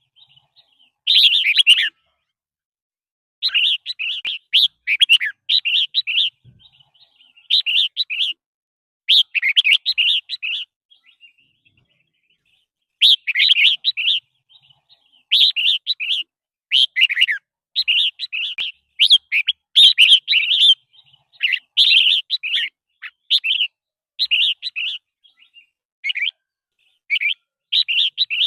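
Red-whiskered bulbul singing: short, bright warbled phrases repeated every second or so, with a pause of about two seconds near the middle.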